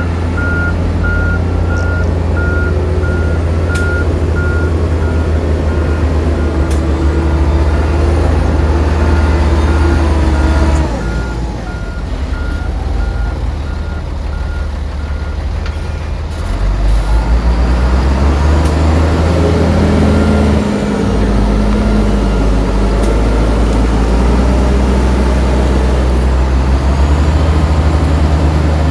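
Diesel engines of heavy earthmoving machinery running under load, with a reverse alarm beeping at an even pace through the first half. About halfway through the beeping stops and an engine revs up, its pitch climbing.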